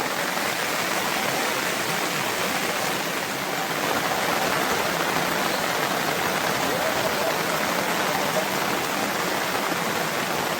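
Steady rain, an even, unbroken hiss with no separate drops or knocks standing out.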